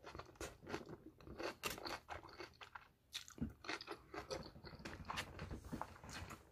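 Chewing a mouthful of broccoli close to the microphone: a steady run of small, quiet crunches.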